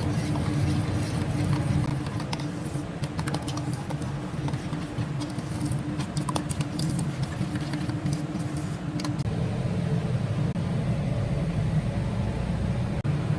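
A steady low hum, with a run of light clicks and taps from about two to nine seconds in.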